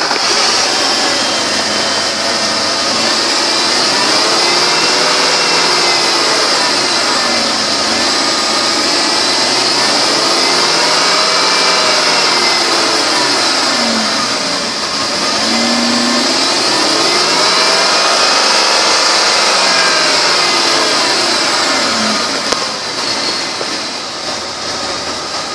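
2003 Lincoln LS 3.9-litre V8 running in an engine-run test, heard from the open engine bay, with a steady high whine over the engine note.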